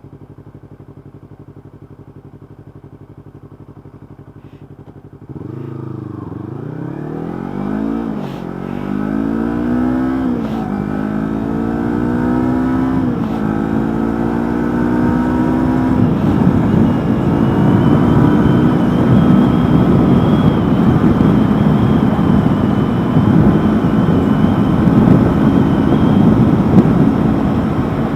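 Yamaha MT-03's 321 cc parallel-twin through an Akrapovic GP slip-on exhaust. It idles quietly, then about five seconds in pulls away and revs up through several gears, the pitch climbing and dropping back at each upshift. It then settles into steady running with a rush of wind noise.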